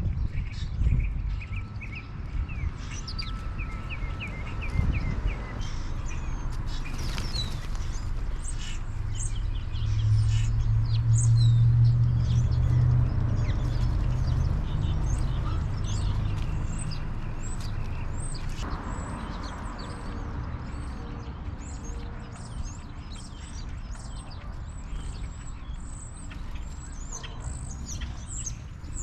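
Small birds chirping over and over in short, high calls. A low rumble swells about ten seconds in and slowly fades.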